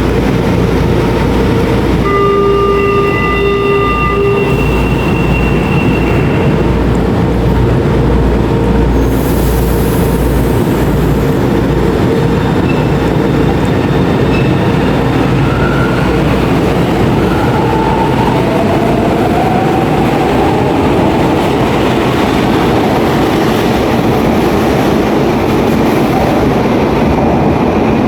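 São Paulo Metro Line 2 (Green) subway train running, a loud steady rumble and rush of wheels on rail. A short high tone sounds a couple of seconds in, and a faint whine shifts in pitch past the middle.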